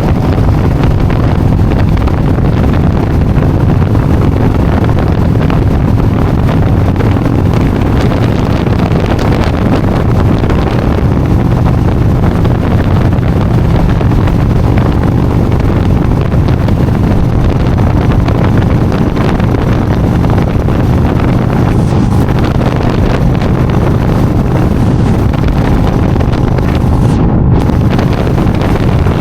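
Motorcycle running at a steady cruising speed, its engine a constant low drone under heavy wind noise buffeting the microphone.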